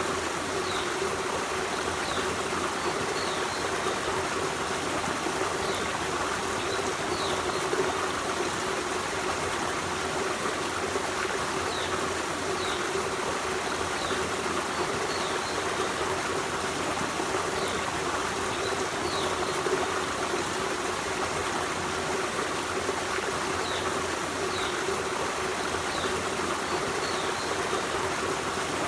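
Forest stream running steadily, a constant rush of water. Over it, a bird gives short, high, falling chirps every second or so.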